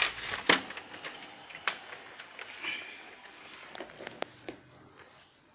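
Scattered small clicks and knocks from handling tools and electronic components on a workbench, a few sharp taps among softer rustling.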